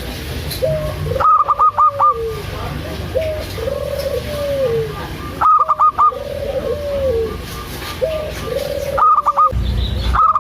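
Zebra dove (perkutut) cooing over and over in short trilled phrases. Three times, a louder burst of five or so quick, high, clipped notes breaks in.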